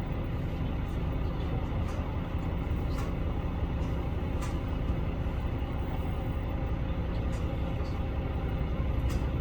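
HOT7000 series diesel railcar running along the line: a steady low rumble of engine and running gear, with a few short sharp clicks at irregular intervals.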